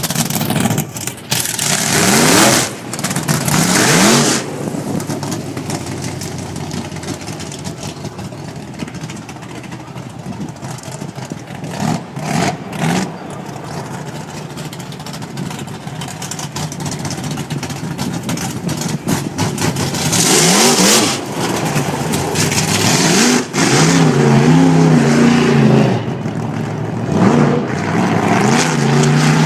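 A race car's engine running loudly, with several bursts of revving and engine pitch climbing and falling repeatedly over the last few seconds.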